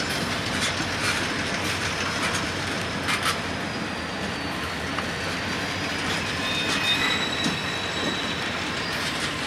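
Freight train cars rolling on the rails: a steady rumble with wheels clicking over the track and thin, high squeals from the wheel flanges, the squeals strongest in the second half.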